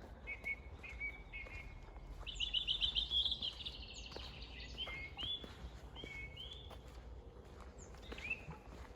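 Songbird singing: short whistled notes, then a fast trill of rapidly repeated notes about two seconds in, followed by further short rising phrases.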